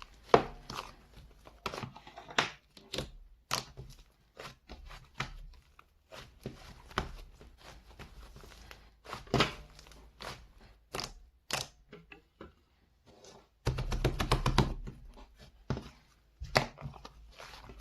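Slime being squished and pressed by hand: irregular sharp clicks and sticky pops, with a dense crackling run about fourteen seconds in.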